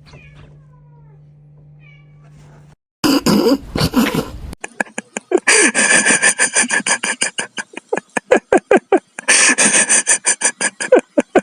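A cat crying loudly in a rapid series of short, pitched calls, several a second, with two stretches of harsher noisy sound, after about three seconds of faint hum.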